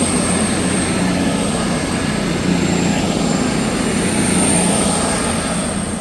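A train running, a loud steady engine drone and rumble with a thin high-pitched whine over it.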